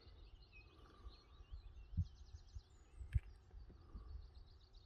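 Faint birdsong, several birds chirping, with a quick trill about halfway through. Two soft low knocks are heard, about two and three seconds in.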